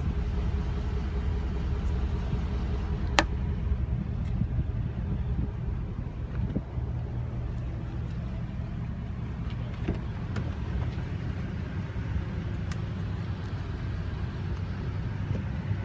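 Vehicle engine idling steadily, a low hum, with a sharp click about three seconds in.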